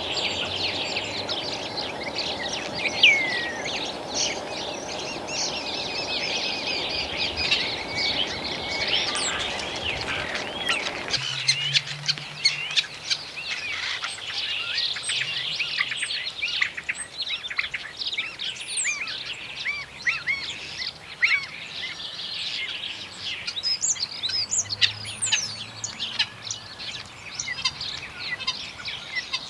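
Common starling singing: a long, busy run of whistles, sliding notes, clicks and chirps. A low rushing background noise underneath stops suddenly about a third of the way through.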